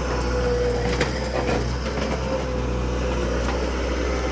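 Skid steer engine running steadily with a steady whine over a low hum, and a few light knocks.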